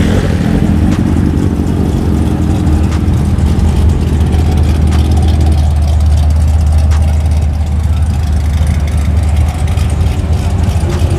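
Car engine idling with a deep, steady rumble. The higher part of the sound thins out about halfway through.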